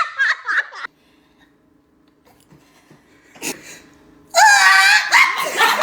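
A person's voice making noises: short choppy vocal sounds at first, a pause with a brief sound around the middle, then a loud, drawn-out vocal cry with wavering pitch about four seconds in.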